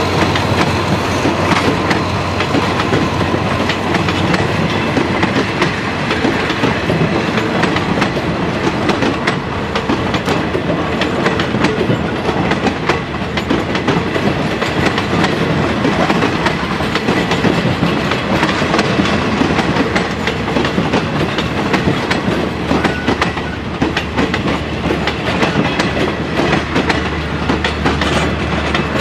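State Railway of Thailand passenger carriages rolling past close by at low speed, their steel wheels clattering over the rail joints in a dense run of clicks over a steady rumble.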